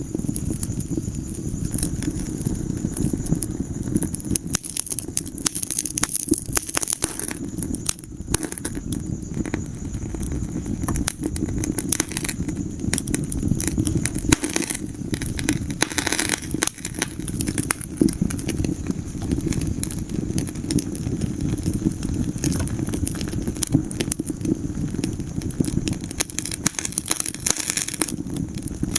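Wood fire burning in a fireplace: many sharp pops and crackles, irregular and constant, over a steady low rush of flame.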